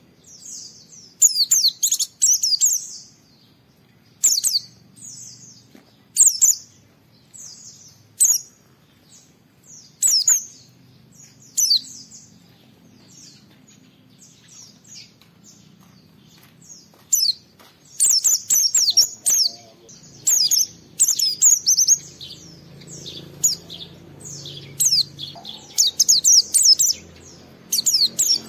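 A white-eye (pleci) singing a vigorous challenge song of rapid, high-pitched twittering phrases. The phrases come in short bursts with pauses, then run almost continuously from about two-thirds of the way in.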